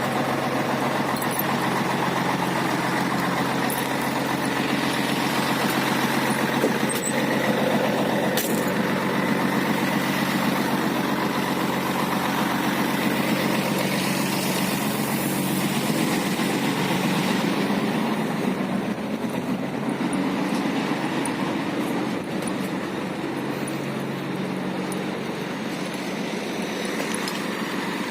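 Heavy diesel truck engine running steadily at low revs, with a few brief clicks and knocks; it gets slightly quieter about two-thirds of the way through.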